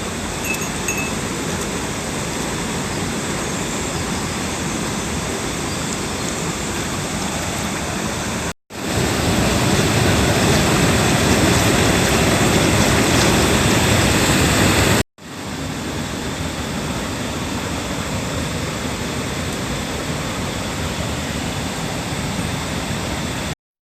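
Rushing water of a mountain stream, a steady even rush heard in three clips that cut abruptly into one another; the middle clip, from about a third of the way in, is louder.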